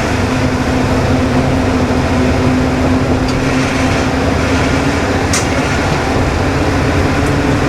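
KiHa 20 diesel railcar running along the line, heard from inside the car: a steady diesel engine drone with wheel-on-rail noise. A held tone in the engine note fades out about halfway through, and a brief sharp click comes about five seconds in.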